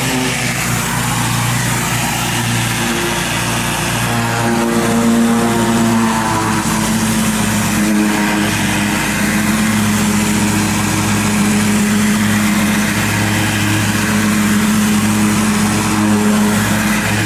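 Gas-engine pressure washer running steadily under load, its pitch shifting slightly now and then, over a continuous spray hiss.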